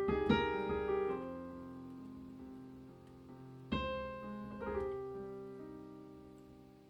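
Slow solo piano music: chords struck at the start and again about four seconds in, each left to ring and fade.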